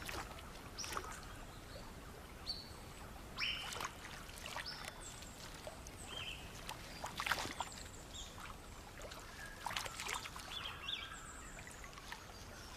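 Scattered short bird chirps and calls over a low steady hiss, with a few brief splashes and water trickling.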